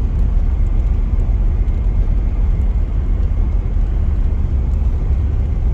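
A motor vehicle driving: a steady, loud low rumble of engine and road noise with no breaks or changes.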